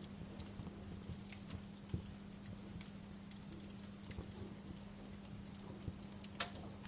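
Wood fire crackling, with irregular sharp pops and ticks over a steady low hiss and a faint steady hum.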